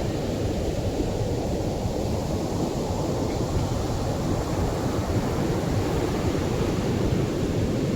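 Atlantic surf breaking on a beach: a steady, low rush of waves with no single crash standing out.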